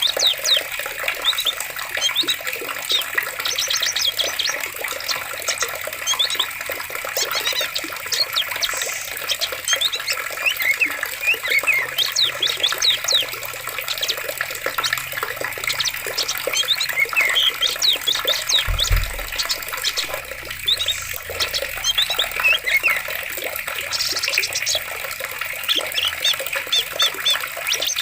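Forest soundscape of steadily flowing water, with many birds chirping and trilling over it. A brief low thump comes about two-thirds of the way through.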